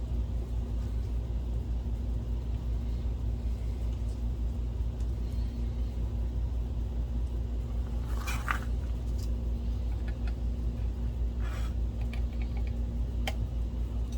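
Steady low hum, with a few light clicks and taps of small parts being handled during projector work, about eight, eleven and a half and thirteen seconds in.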